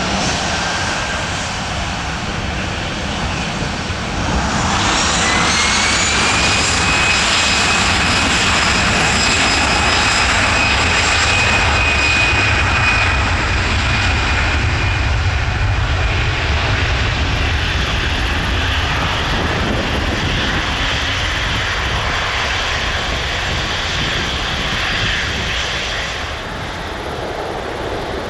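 Airbus A319 twin jet engines spooling up to take-off power: about four seconds in, a whine rises in pitch and the sound grows louder. It then holds as a steady high whine over the jet noise, easing off near the end.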